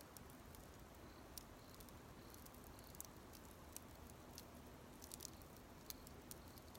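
Small wood campfire burning quietly, with faint sparse pops and crackles about once a second, a quick cluster of them about five seconds in, over a soft steady hiss.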